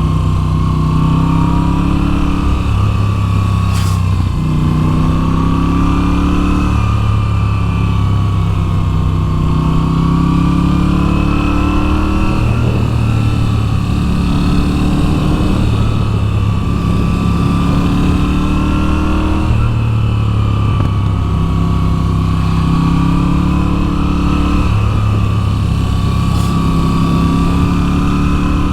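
2022 Moto Guzzi V7's air-cooled V-twin engine running under way, its pitch rising and falling over and over as the rider works the throttle and gears.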